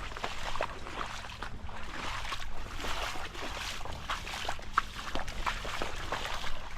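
Rainwater runoff trickling and gurgling in a small stream, with many quick irregular plinks over a steady rush.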